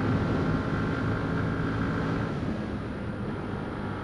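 Yamaha WR125X supermoto's 125 cc single-cylinder four-stroke engine running at steady road speed while riding. The engine note drops a little about halfway through.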